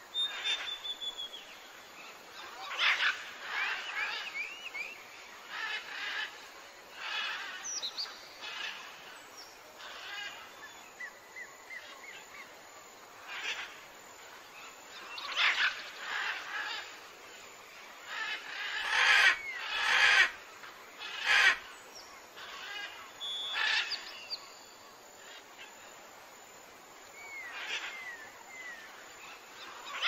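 Forest birds singing and calling in short chirping phrases every second or two, some with quick whistled glides. A few sharp clicks, the loudest sounds, come about two-thirds of the way through.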